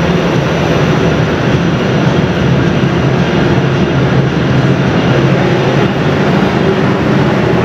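Wind rushing over the microphone on the deck of a moving car ferry, with the ferry's engine droning steadily underneath.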